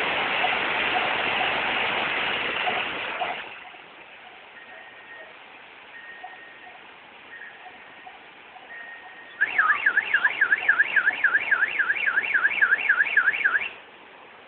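A loud rushing noise for about three seconds that stops abruptly, then a car alarm warbling rapidly up and down, about four sweeps a second, for about four seconds.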